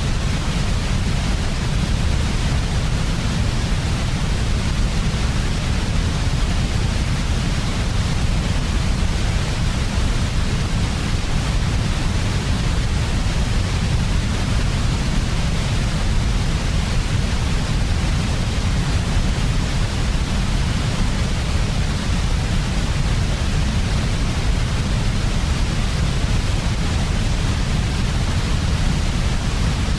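Continuous white noise at a steady level, with a deep rumble underneath and an even hiss on top, unchanging throughout.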